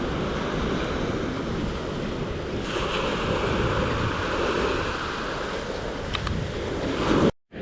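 Waves breaking and washing up on a beach, a steady surging rush. Near the end the sound cuts out completely for a moment.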